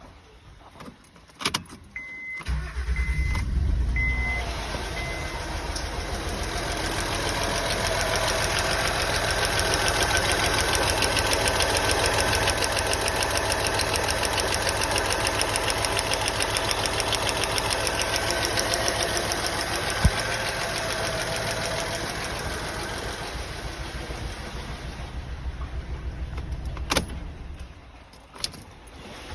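Honda Accord V6 cranked and started about two seconds in, with a few short electronic beeps from the car as it catches, then running steadily with a misfire on cylinders 4, 5 and 6 before being switched off near the end.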